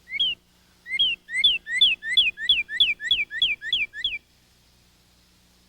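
A songbird singing: one two-part note, then after a short pause about ten quick repeats of the same note, each a short rising note followed by a falling slur, before it stops.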